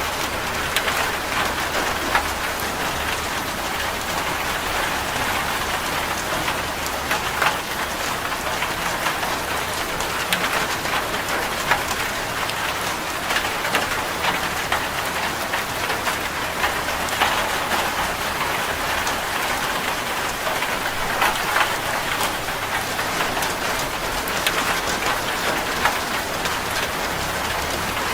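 Rain drumming steadily on a corrugated zinc roof: a dense, even patter with individual drops striking sharply on the metal sheets.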